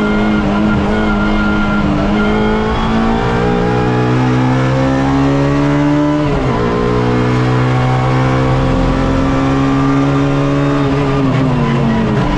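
Suzuki Swift race car engine heard from onboard, pulling hard with the revs rising through a gear. About six seconds in the revs drop sharply on an upshift, then climb again, and they fall near the end as the driver comes off the throttle.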